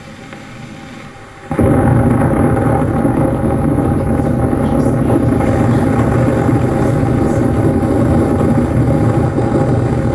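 A loud, deep, steady rumble that starts suddenly about a second and a half in and holds without fading.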